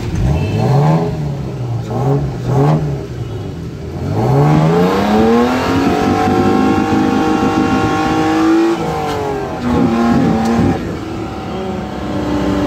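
Datsun 120Y's engine heard from inside the cabin as the car drives off: short rises and falls in revs for the first few seconds, then a long climb in pitch as it accelerates, and a sharp drop about nine seconds in at a gear change before it runs on.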